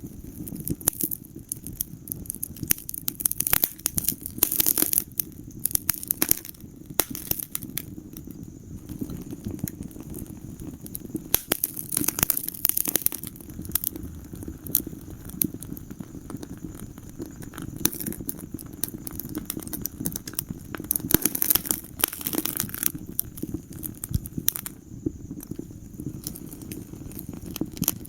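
Wood fire in a fireplace crackling, with irregular sharp pops and snaps that come thicker every several seconds over a low steady rumble.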